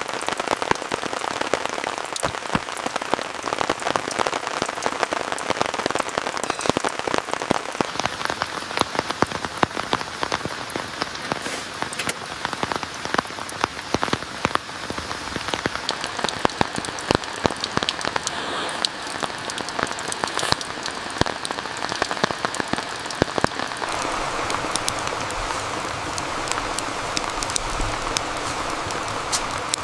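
Rain falling, with a dense patter of drops striking a surface. Near the end the sharp drop hits thin out and a steadier rushing sound comes up beneath them.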